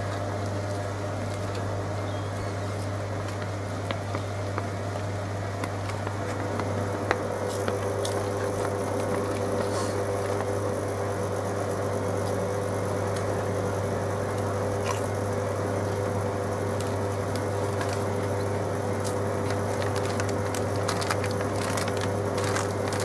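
Hoover Logic washing machine filling with water for its next rinse: a steady low hum with water hissing and pattering into the drum, and a second steady tone joining about six seconds in.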